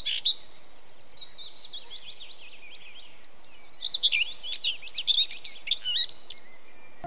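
Several birds chirping and twittering, short quick calls that crowd together in the second half and stop about a second before the end, over a faint steady hiss.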